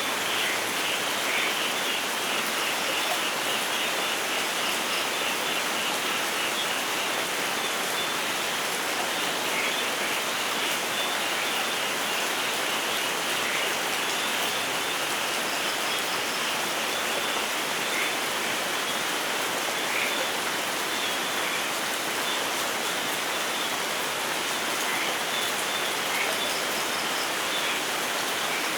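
Steady rain falling in a forest, an even, unbroken hiss with no thunder.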